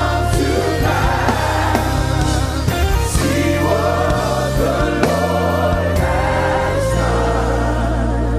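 Gospel worship song: a congregation and choir singing together over a live band with bass, keyboard and drums.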